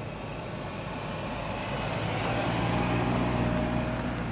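First-generation MINI Cooper S driving slowly past at close range, its engine note getting louder as it approaches and peaking about three seconds in, with a thin whine over the engine sound.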